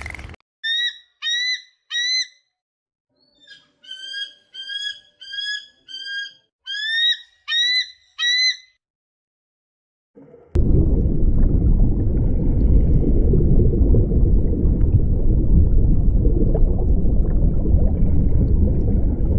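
A series of about a dozen short, high calls, each rising then falling: three close together, then a pause, then a quicker run of eight or nine. About ten seconds in, a loud, steady, low rumbling noise takes over.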